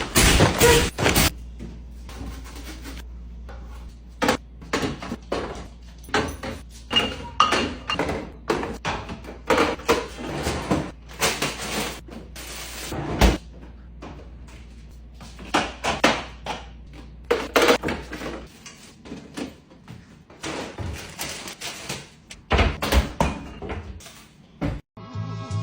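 Irregular knocks, clicks and clatters of plastic bins, containers and food items being handled and set down while restocking a fridge, with a low steady hum underneath that stops about two-thirds of the way through.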